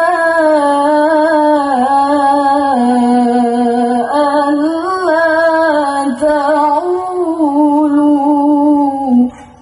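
A woman's voice alone, singing a slow melody in long, wavering held notes; it cuts off abruptly just before the end.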